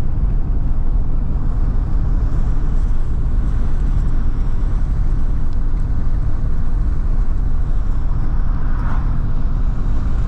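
Steady low rumble of a pickup truck's engine and tyres, heard from inside the cab while driving.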